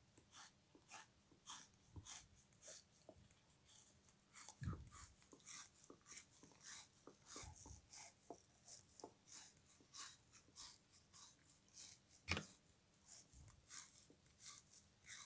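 Chewing of a frozen sponge soaked in lemon-kiwi syrup: a steady stream of crisp crackles and mouth clicks, several a second, with a sharper crunch about twelve seconds in.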